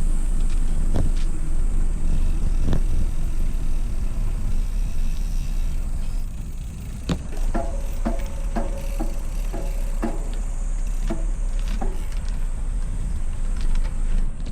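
Wind rumbling over the microphone of a moving rider, steady throughout, with a run of sharp clicks and rattles about halfway through.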